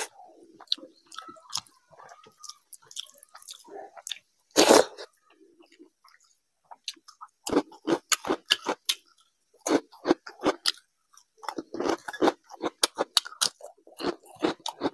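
Close-up chewing and mouth sounds of a person eating rice and curry by hand, with one loud mouth noise about four and a half seconds in. In the second half, a dense run of sharp crunches as fried papad is bitten and chewed.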